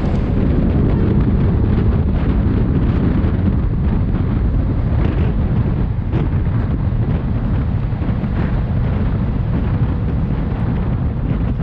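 Train running at speed: a steady heavy low rumble with wind buffeting the microphone and a few faint clicks scattered through it.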